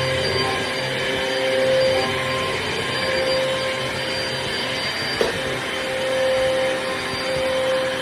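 Amazon Basics upright bagless vacuum cleaner running steadily, a rushing motor noise with a steady whine, and a single click about five seconds in.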